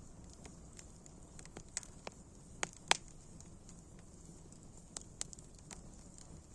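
Wood fire crackling: irregular sharp pops and snaps over a low steady rumble, the loudest pop about three seconds in.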